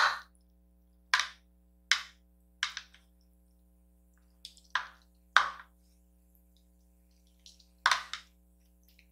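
Close-miked eating sounds: about seven short, separate wet smacks and clicks with pauses between them, a pair near the end.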